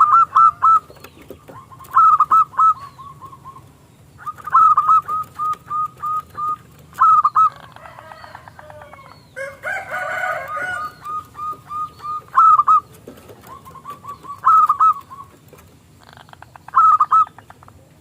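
Zebra dove (perkutut) singing: phrases of a few ringing coos, each followed by a quick run of short even coo notes, about every two to three seconds. Small birds chirp faintly in the background, and a rougher, noisier call breaks in about ten seconds in.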